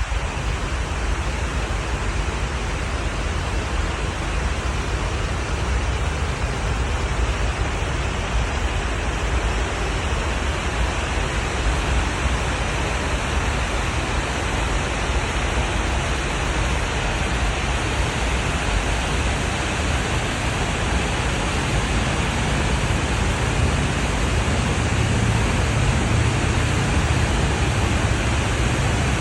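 Water pouring over the falls on the Snake River, a steady, even rush of white water with a deep low rumble beneath it.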